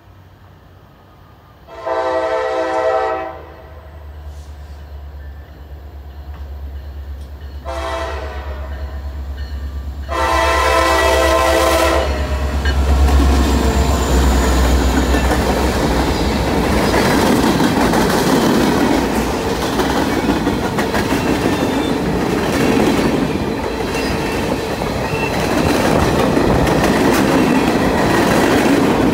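Norfolk Southern EMD SD60E diesel locomotive sounding its air horn for a grade crossing in three blasts, long, short, then long, over the low rumble of its engine that grows as it draws near. After it passes, freight cars roll by, wheels clattering steadily over the rail joints.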